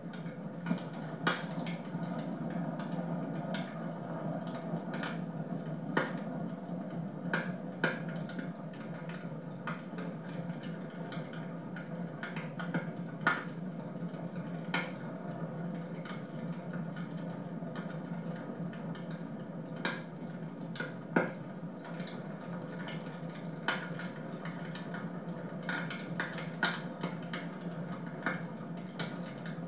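Wood fire burning in a fireplace, with a steady low rush and irregular sharp crackles and pops from the burning logs.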